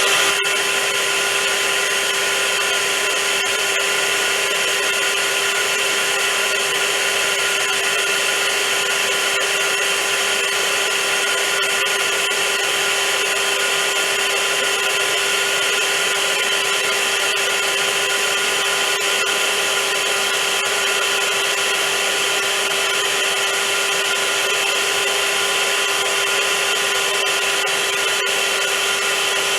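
Vacuum cleaner running steadily: a constant motor whine over a loud rushing hiss of air, with no change in speed.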